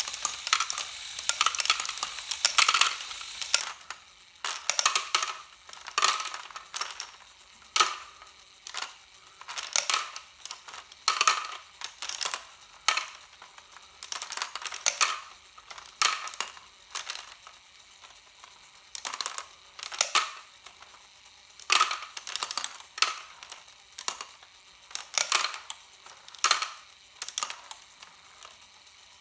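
Lego Great Ball Contraption module running: plastic balls clicking and clattering through the Technic engine-block conveyor in irregular bursts, densest in the first few seconds.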